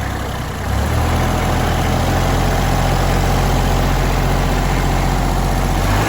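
Tractor engine running steadily, growing louder a little under a second in and then holding an even hum, while it is run to check the radiator repair for leaks.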